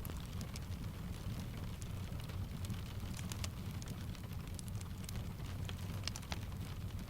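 Steady rain mixed with a crackling fireplace: a continuous low rumble under scattered sharp crackles and ticks.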